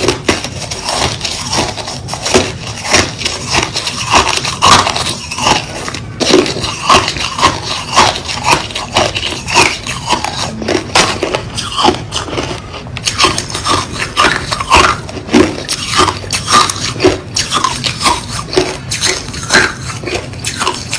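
White crushed ice being chewed: a steady run of crisp, loud crunches, about two a second.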